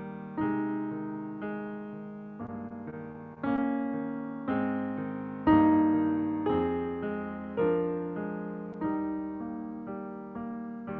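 Piano or electric piano playing slow chords, a new chord struck about once a second and left to fade.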